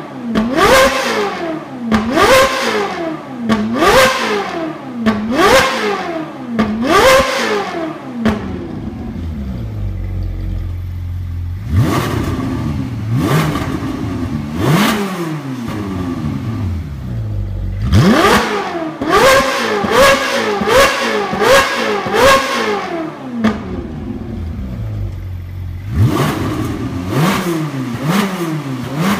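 Ferrari 458 Italia's naturally aspirated V8, fitted with a high-pitched aftermarket valved exhaust, revved over and over in sharp blips, each rising quickly in pitch and falling back to idle. There is a regular run of revs, then a short spell of idling, then more blips, some in quick succession.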